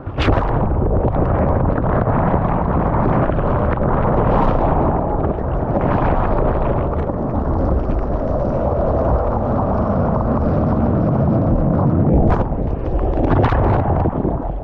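Loud, steady rushing and rumbling of surf and wind buffeting the camera microphone, with a short sharp crack at the start and again about twelve seconds in.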